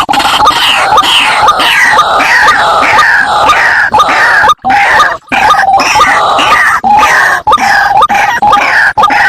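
White-breasted waterhen calling: a loud, rapid run of harsh notes falling in pitch, about three a second, played back as a bird-trapping lure recording.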